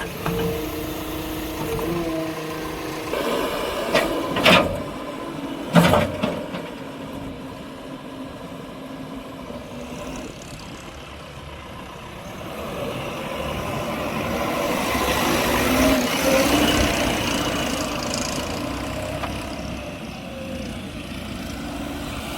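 Heavy vehicle engine running, with two sharp loud bangs about four and a half and six seconds in. The engine noise swells and fades again between about thirteen and twenty seconds.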